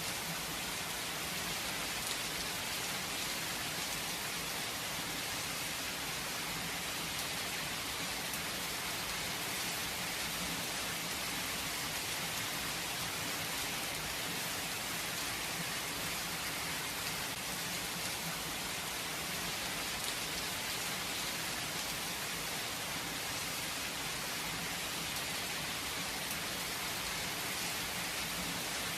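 Steady rainfall, an even hiss of drops falling on surfaces, with no thunder.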